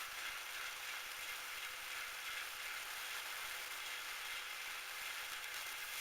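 Metal lathe running steadily with an even hiss and a faint steady hum.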